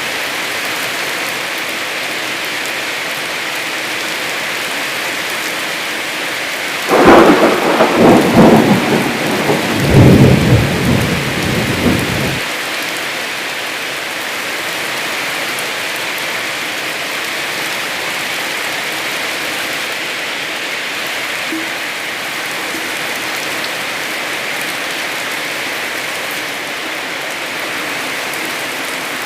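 Heavy rain falling steadily, with a loud crack and rumble of thunder about seven seconds in that lasts about five seconds and cuts off suddenly.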